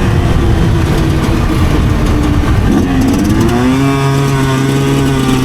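2009 Yamaha YZ125 single-cylinder two-stroke engine under way: off the throttle at first, then revs rise about three seconds in and hold steady.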